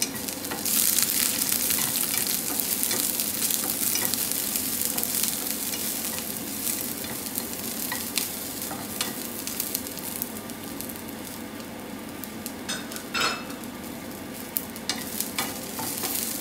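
Chopped garlic and red onion sizzling in hot oil in a stainless steel frying pan, stirred with a wooden spatula that scrapes and knocks against the pan now and then. The sizzle is loudest about a second in, just after they hit the oil, and eases off gradually.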